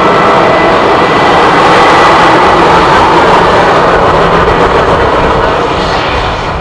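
Jet engines of an Airbus A320-214 (CFM56-5B turbofans) passing close by: a loud rushing roar that is strongest about two seconds in and fades toward the end.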